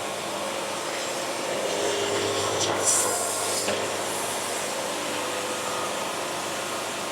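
Band sawmill running, its blade cutting a board off a hardwood log with a steady whirring hiss, brighter and hissier for about a second about three seconds in.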